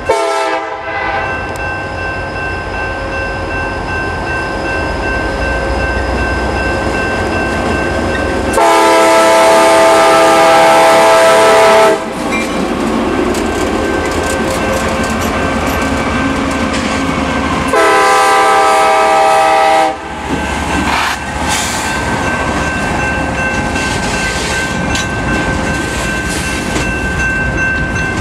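CSX freight train's diesel locomotives passing close by with a steady engine rumble. The horn sounds three times: the end of a blast right at the start, a long blast of about three and a half seconds, and a shorter one of about two seconds. In the last part the freight cars roll past with their wheels clacking.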